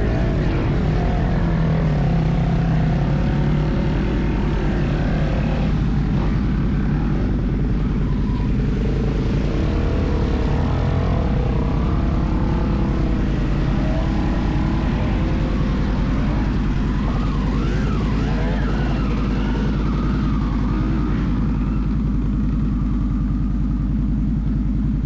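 Off-road vehicle engine running continuously, with its pitch rising and falling as it revs about two-thirds of the way through.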